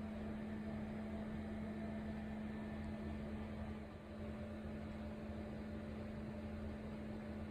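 Steady low hum with one constant pitch over a faint hiss: background room tone with no eating sounds yet.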